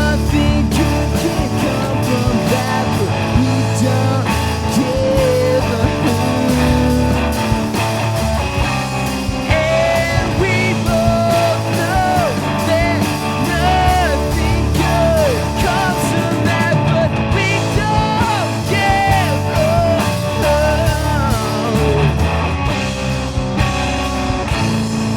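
Live rock band playing an instrumental passage: a bending lead melody over guitar, bass and drums.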